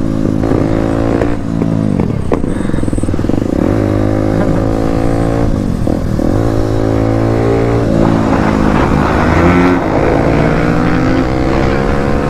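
Motorcycle engine running under way, its pitch dipping and climbing again several times as the rider shifts and opens the throttle, with a stretch of louder rushing noise a little past the middle.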